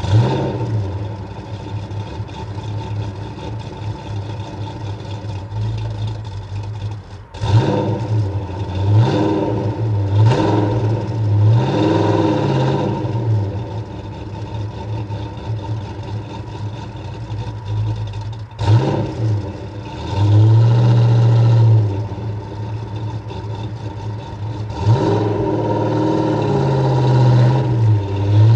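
Car engine idling, revved up and let fall back several times in short blips, with one rev held for a couple of seconds about two-thirds of the way in.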